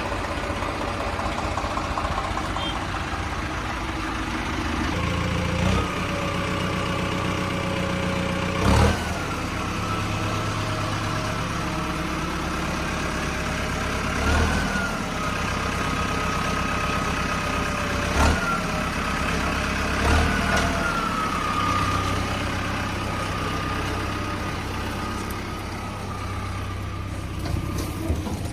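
Tractor engine running steadily, with a handful of sharp knocks or thumps over it.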